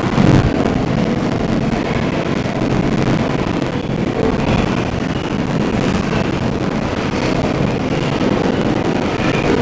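Steady rumble of an R142 subway car running on the rails, heard from inside the car, with a brief louder thump just after the start.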